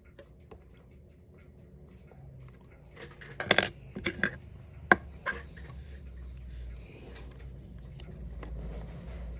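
Small metal watch parts and repair tools clicking and clinking while a Seiko 5 with a 7S36 automatic movement is taken apart. A quick cluster of sharp clicks comes a little past three seconds in, then lighter ticks.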